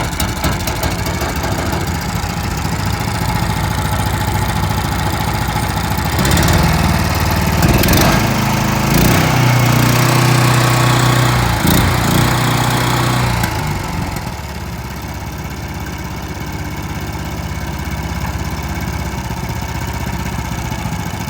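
Mud motor engine on a duck boat running steadily. About six seconds in it speeds up and stays higher for roughly seven seconds, then drops back to a lower steady run.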